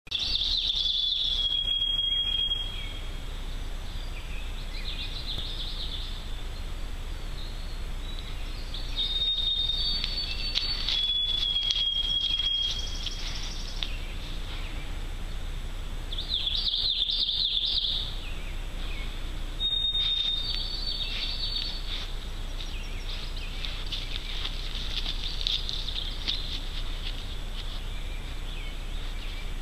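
Songbirds singing: clear whistled notes held on one pitch, some a little higher than others, repeated every few seconds, with bursts of quicker chatter in between.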